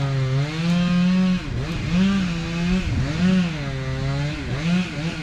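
Engine running at high speed, its pitch repeatedly dipping and recovering roughly every second and a half.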